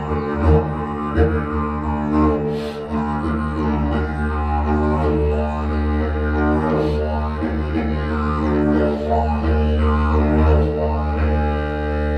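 Didgeridoo droning continuously on one low note, held without a break by circular breathing, while its overtones sweep up and down as the mouth shapes the sound. It echoes inside a hand-carved rock tunnel.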